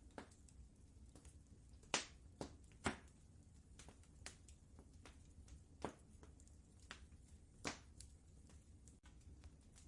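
Wood fire crackling in a fireplace: irregular sharp pops and snaps, louder ones around two and three seconds in and again near six and eight seconds, over a faint low rumble.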